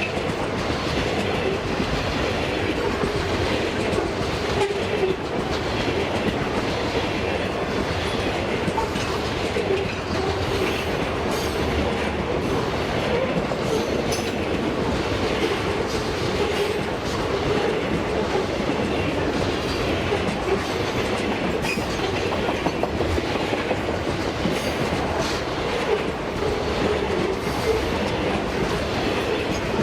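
Freight train wagons rolling past with a steady rumble, the wheels clacking over the rail joints.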